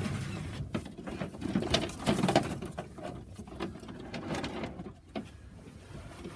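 Racing pigeons cooing in a loft, loudest about two seconds in, with a few sharp clicks among them.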